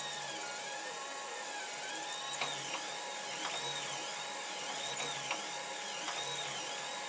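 3D printer running a print: its stepper motors whine in repeated rising-and-falling sweeps as the print head moves back and forth, about two sweeps a second in the second half, with a few light clicks.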